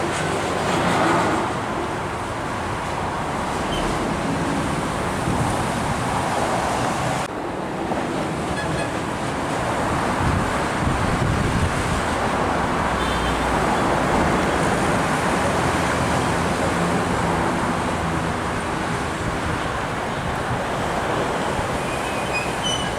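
Steady roadside traffic: engine rumble and tyre noise of trucks and cars passing, swelling and easing as each goes by, with an abrupt change about seven seconds in.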